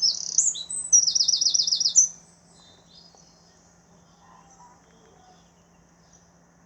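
Songbirds chirping, with a quick trill of about eight rapid notes about a second in; the birdsong stops about two seconds in, leaving only a faint low hum.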